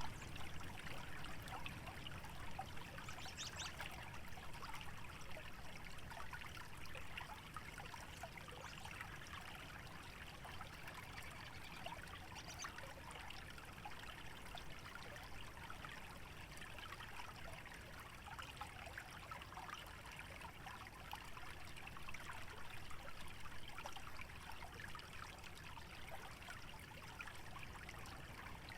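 Small stream trickling and bubbling steadily over a shallow bed, with a low rumble of wind underneath.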